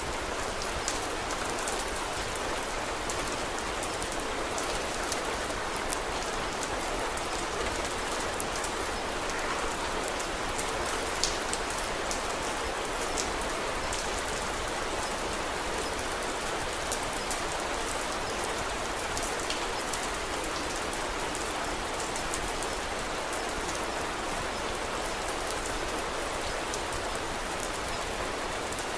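Steady rain falling, with scattered sharp crackles from a wood fire over it, one slightly louder about eleven seconds in.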